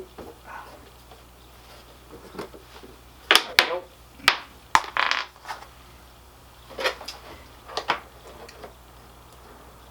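Scattered sharp clicks and light knocks of hand tools and small metal parts being handled, with a dense cluster about three to five seconds in and two more knocks near seven and eight seconds, as the fuel pump's mounting nuts are worked on.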